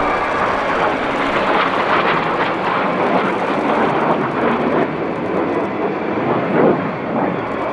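Aircraft engine noise: a loud, steady rush with no clear pitch, swelling briefly near the end.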